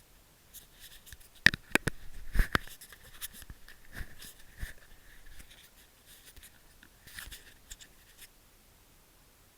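A run of sharp clicks, knocks and scrapes close to the microphone, loudest about one and a half to two and a half seconds in and dying away near the end, with no engine running.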